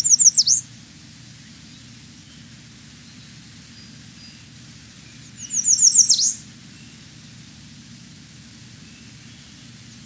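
American redstart call from a recording: a quick run of high, thin notes ending in a sharp downslurred note, repeated about every five seconds over a steady low hum.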